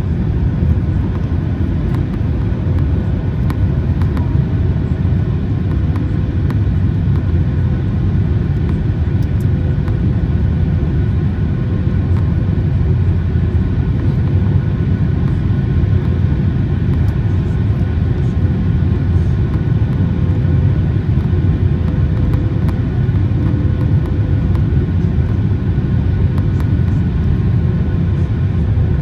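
Steady cabin noise inside a Boeing 737 MAX 8 airliner: a low rumble of its CFM LEAP-1B engines and airflow, with a steady hum over it and no change in level.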